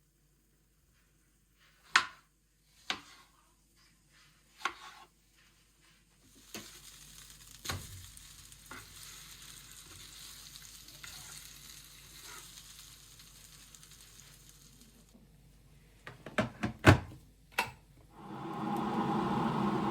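Kitchen sounds: a few separate knocks, then food sizzling in a pan for about eight seconds with occasional clicks, then several sharp knocks of utensils or cookware. Near the end a louder, steady rushing noise starts.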